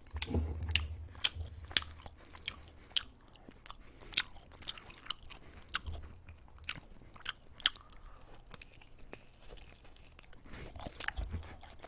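Close-miked chewing and biting of crispy cheese-powdered chicken: irregular crunching clicks and wet mouth sounds, with a fresh bite near the end.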